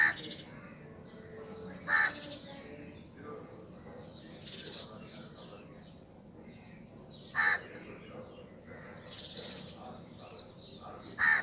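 Four loud, short bird calls a few seconds apart, over a faint, patchy higher-pitched background.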